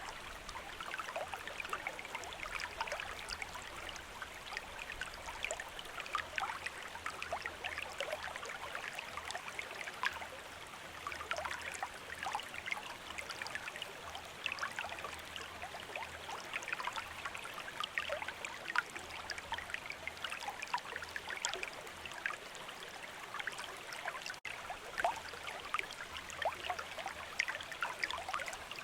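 Running river water babbling steadily over stones, a constant rush sprinkled with many small splashes and trickles. A split-second gap in the sound about three-quarters of the way through.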